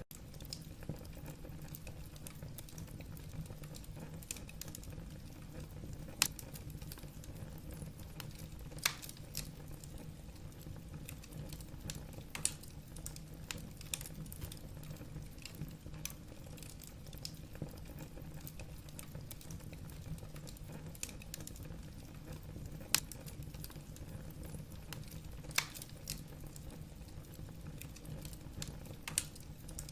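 Wood fire burning in a fireplace: a steady low rumble of flames with scattered sharp crackles and pops of burning logs, a few louder snaps among them.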